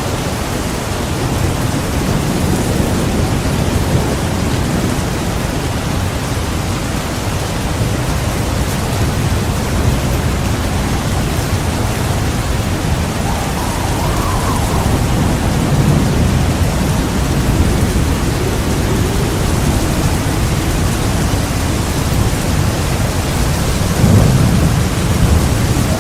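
Heavy rain pouring steadily, with low rolling thunder swelling up several times.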